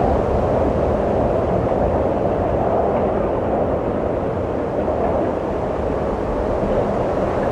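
Steady wind noise, a deep low rushing that swells and eases slightly, without gusting peaks.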